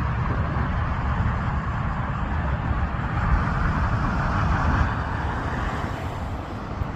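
Steady rumble of vehicle engines and road traffic, with no single sound standing out.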